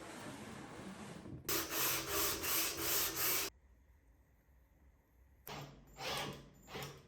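Wood being rubbed by hand in quick back-and-forth strokes, about three a second, after a softer steady hiss; near the end, three shorter strokes.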